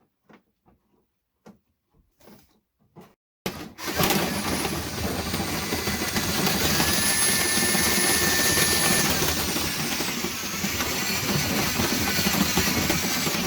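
A few light clicks and knocks, then about three and a half seconds in a drill starts and runs steadily, spinning a rotary cleaning brush on rods through a dryer vent duct. Its motor whine steps up in pitch in the middle and drops back later.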